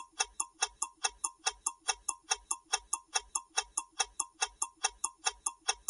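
Countdown-timer ticking sound effect: rapid, even clock-like ticks, about five a second, marking the seconds left to answer a quiz question.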